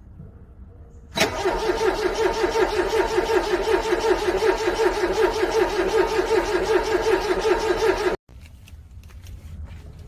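A car's starter motor cranking a cold engine over in a steady, rhythmic pulse without it catching. The cranking begins about a second in, runs for about seven seconds and cuts off suddenly.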